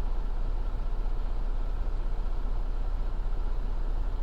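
Steady low rumble, deepest in the bass with a fast even flutter, from a semi truck idling at a railroad crossing while a long freight train rolls past.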